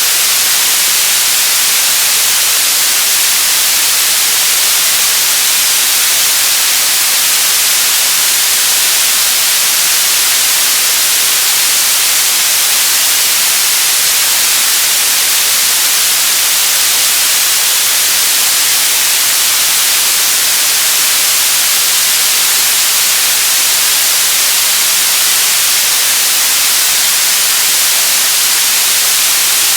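Television static: loud, steady hiss, unchanging throughout and brightest in the treble.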